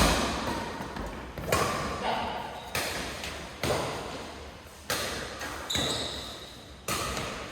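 Badminton rackets striking a shuttlecock in a rally, about seven sharp hits at irregular intervals of roughly a second, each echoing in a large hall.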